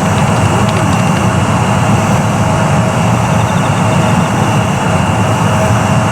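Jet airliner engines running steadily, a loud low rumble with a steady whine over it.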